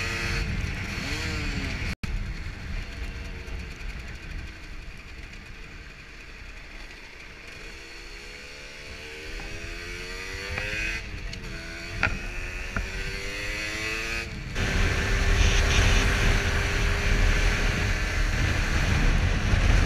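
Motorcycle engine on the move, its pitch rising and falling with throttle and gear changes over a rush of wind. The sound cuts off abruptly twice as one riding clip gives way to the next. The last few seconds are dominated by a loud, low wind rush with a steady engine drone.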